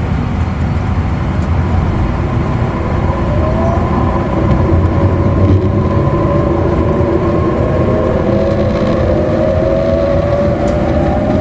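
Running noise heard inside an E259 series Narita Express motor car: steady rumble of the train on the rails, with the traction motors' whine slowly rising in pitch from about three seconds in as the train picks up speed.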